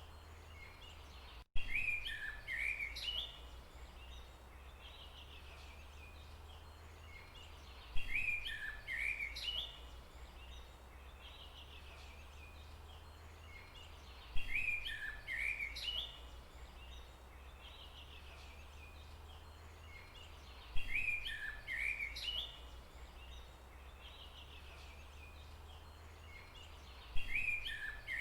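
A bird's song phrase of quick chirping notes, repeated five times about every six and a half seconds, over a steady low rumble of forest ambience.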